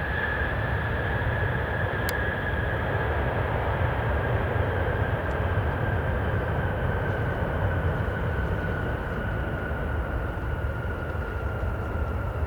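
Boeing 747's jet engines on a landing approach: a steady, loud rumble with a high engine whine that slowly falls in pitch as the jumbo jet passes. A single sharp click about two seconds in.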